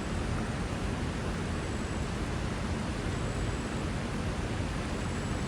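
Steady rush of fast-flowing creek water: an even, unbroken hiss.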